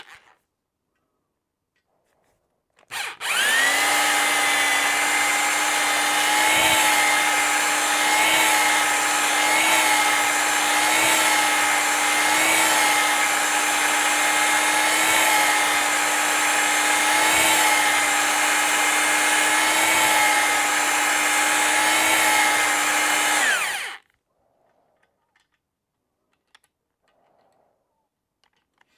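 An electric drill motor starts about three seconds in and runs at a steady high whine, dipping slightly under load roughly every second and a half, then stops about five seconds before the end.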